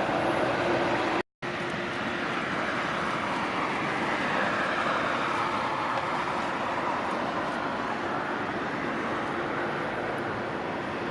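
Jet engine roar of a departing Boeing 777-300, a steady rushing noise that swells in the middle and eases off toward the end. It is broken by a brief silence about a second in.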